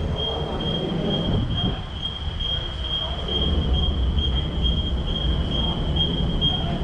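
Steady low rumble of the Star Ferry's engine running underway, with a thin high-pitched whine that pulses quickly and evenly.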